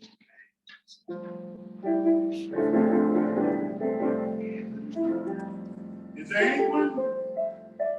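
Keyboard music: sustained, held chords start about a second in after a brief near-quiet moment, with a voice briefly rising over them near the end.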